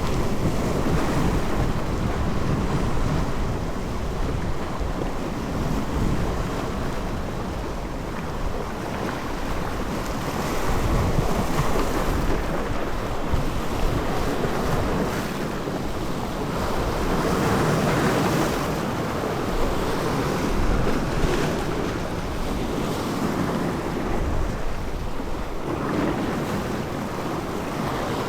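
Sea waves washing and wind buffeting the microphone, a steady rush that swells and eases in slow surges.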